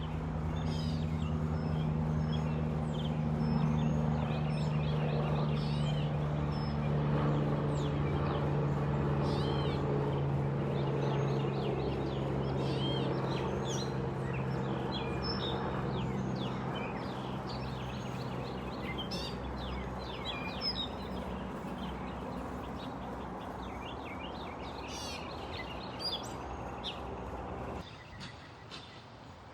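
An aircraft engine's steady low drone slowly fading away over about twenty seconds, with many birds chirping throughout. The sound drops off suddenly near the end.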